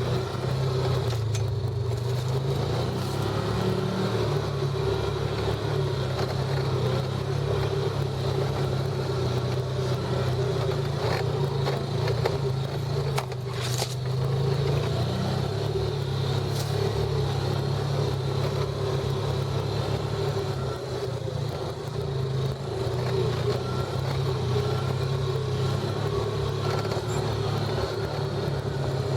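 Off-road vehicle's engine running at a steady, low trail speed, heard from on board. There is a single sharp click about 13 seconds in.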